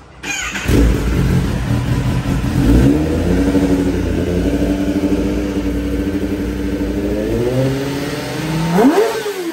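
Kawasaki ZX-10R inline-four running loud through a Leo Vince slip-on exhaust fitted on the high-hung link pipe. It comes in suddenly and is revved, climbing a little about three seconds in, then given one sharp blip near the end that rises and falls away.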